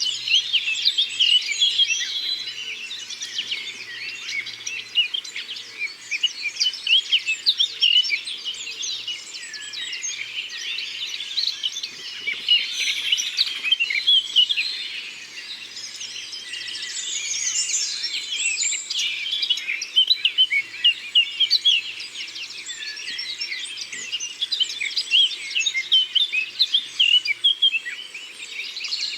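Forest birdsong: many birds chirping and trilling at once, a dense, continuous chorus of quick high notes.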